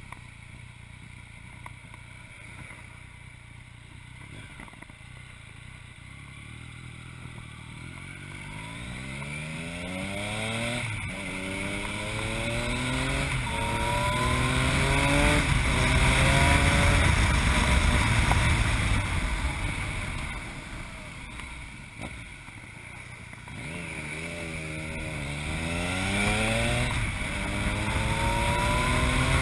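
Yamaha MT-09's inline three-cylinder engine through an Akrapovic exhaust, quietly low at first, then accelerating through the gears: the pitch climbs and drops back at each upshift. It eases off about two-thirds of the way through, then pulls hard again with more upshifts near the end, over steady wind rush.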